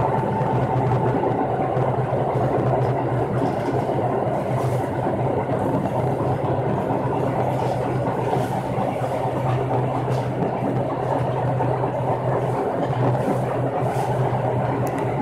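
Chichibu Railway express electric train running at speed, heard from inside the driver's cab: a steady low motor hum over wheel-on-rail rumble, with a higher whine fading out in the first second or two and a few faint clicks from the rail joints.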